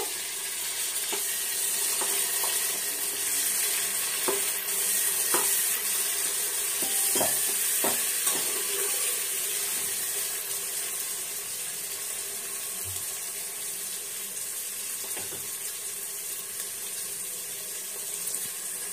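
Chopped tomatoes, onions, peanuts and whole spices sizzling in hot oil in a pressure cooker while a steel ladle stirs and scrapes the pot, giving scattered light clicks in the first half; the frying sizzle then carries on steadily.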